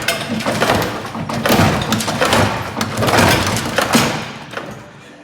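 A run of heavy, irregular thumps with crunching and cracking, fading away near the end.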